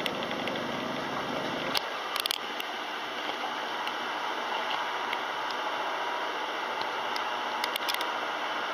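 Kelvinator K605 top-loading washing machine running mid-cycle. A low rumble cuts off with a click about two seconds in, a few light clicks follow, and a steady hiss carries on.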